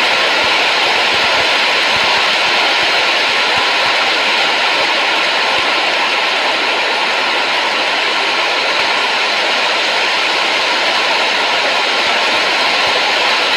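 Continuous, even rushing noise with no change in level, carrying a faint steady tone.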